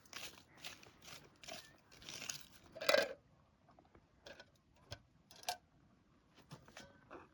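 Footsteps crunching on dry ground at an even walking pace, stopping about three seconds in with a louder knock, followed by a few scattered light clicks and knocks.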